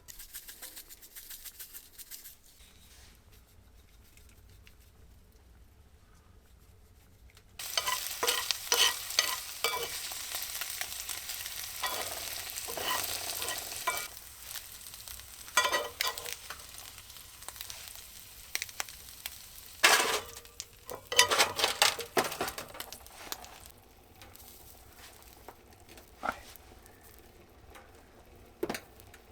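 Food sizzling in a hot pan while it is stirred, with scraping clicks from the spoon. The sizzling starts abruptly about a quarter of the way in and dies down in the last few seconds.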